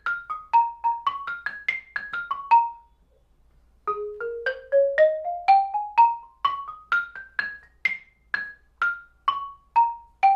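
Xylophone played with mallets: a quick run of struck notes, a brief pause about three seconds in, then an evenly paced line of notes climbing and falling back. It is an arpeggio exercise outlining seventh chords.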